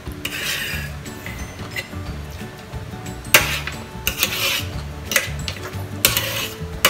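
Utensils clinking and scraping on dishes during eating, with a few sharp clinks, the loudest a little past halfway, over background music.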